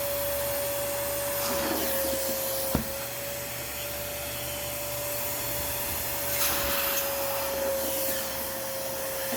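Fujihama wet and dry vacuum cleaner running steadily, a rush of air over one constant whining tone, as it sucks soapy liquid out of sofa fabric through a transparent deep-cleaning nozzle. The rush swells briefly twice, and there is a single click about three seconds in.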